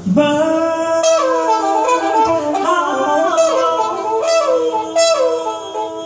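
Live jazz trumpet playing a line of bending, sliding phrases over a held low note, with several sharp attacks.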